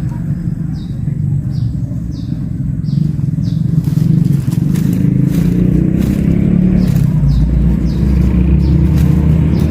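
A motor engine running steadily with a low rumble, growing louder about four seconds in. Short high chirps repeat about every half second over the first half.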